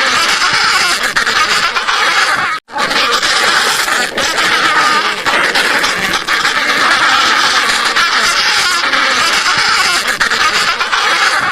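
Many penguins calling at once, a dense, continuous chatter of quacking, laughing-sounding cries from a colony. The sound cuts out for an instant a little over two seconds in, then carries on.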